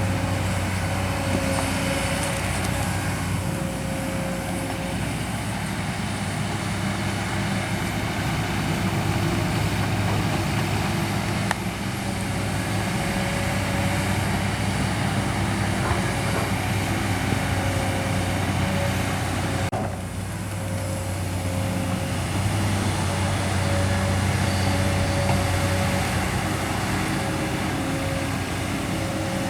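Kobelco SK200 hydraulic excavator's diesel engine running steadily under working load, with a steady higher tone over it. The sound briefly drops about two-thirds of the way through.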